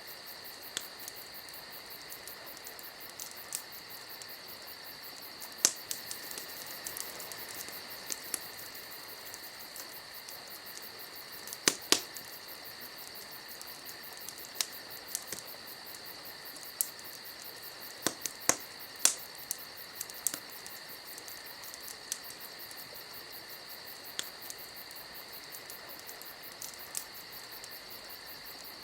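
Wood fire crackling, with sharp irregular pops, several loud ones among them, over a steady high-pitched trill.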